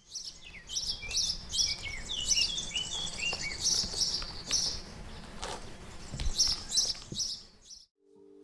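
Birds chirping and twittering: a busy run of short high calls, several sliding down in pitch, over a low background rumble, cutting off just before the end.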